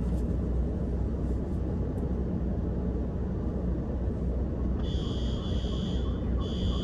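Steady low rumble of a car idling, heard from inside the cabin. About five seconds in, an electronic buzzer sounds a steady high tone for about a second, stops briefly, then sounds again.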